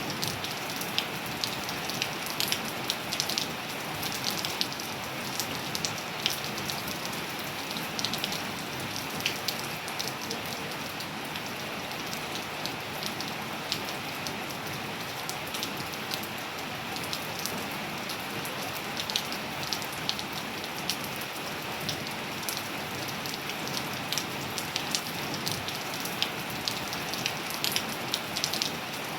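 Steady rain falling: an even hiss with many close, irregular taps of individual drops striking surfaces.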